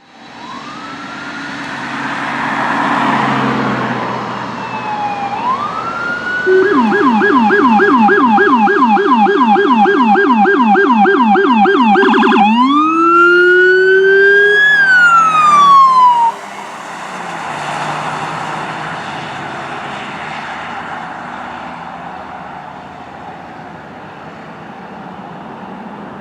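Electronic siren of an unmarked Ford Police Interceptor Utility: a wail at first, then a fast yelp of about four sweeps a second from about six seconds in, changing near the middle to a wail that rises, falls and cuts off suddenly. After that only steady road and engine noise of the passing traffic remains.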